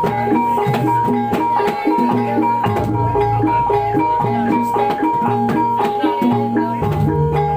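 Javanese traditional percussion ensemble music of the kind that accompanies kuda kepang and reog: tuned metal gong-chimes and drums playing a steadily repeating fast pattern, with held tones above them.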